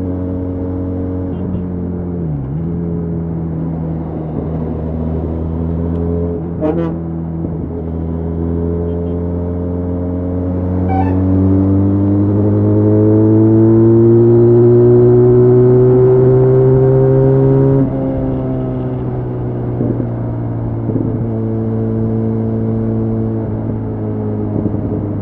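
Benelli Leoncino 500 parallel-twin engine under way, running steadily with a brief dip in revs a couple of seconds in, then pulling with steadily rising revs and getting louder through the middle before dropping off suddenly as the throttle closes, then running steadily again.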